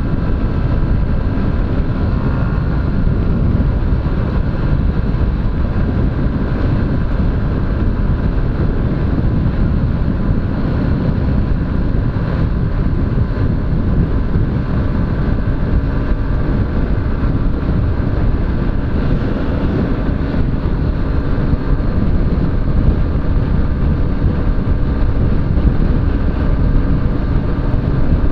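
Honda CG 125 Fan motorcycle on the move, its single-cylinder engine running steadily under wind rushing over the action camera's microphone.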